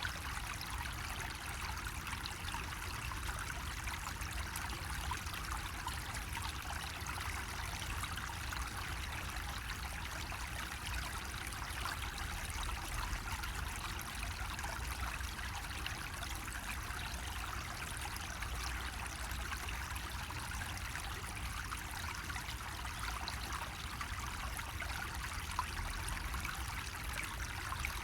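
Water running steadily out of a bamboo spout, an unbroken splashing flow with a low rumble underneath.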